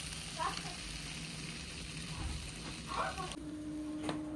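Food frying with a steady sizzling hiss that cuts off sharply about three seconds in, leaving a faint steady hum.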